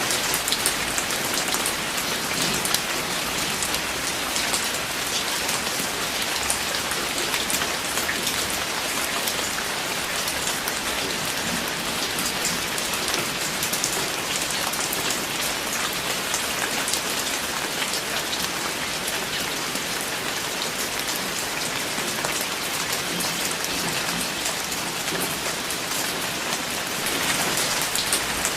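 Steady rain falling, a dense hiss of many individual drops pattering on a surface.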